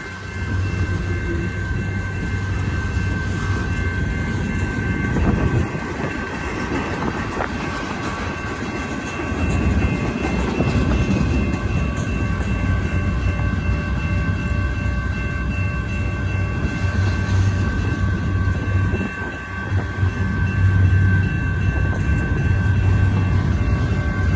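Freight train cars rolling past: a continuous low rumble with steady high-pitched ringing tones held throughout.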